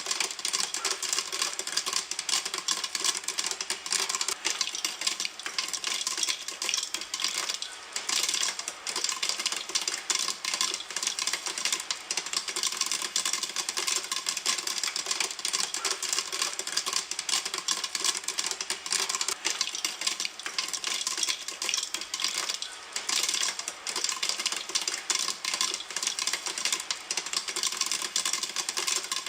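Popcorn popping in a pan, a dense run of sharp pops and crackles with no pause.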